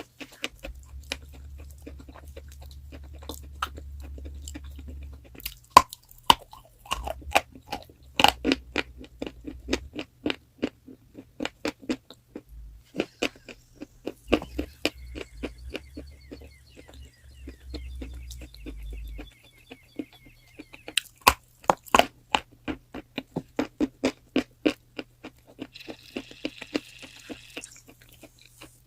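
Close-miked chewing of crunchy chalk: runs of crisp crunches, several a second, with short pauses between bites.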